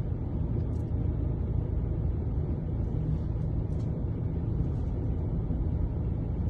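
Steady low rumbling noise, without any clear tones or rhythm.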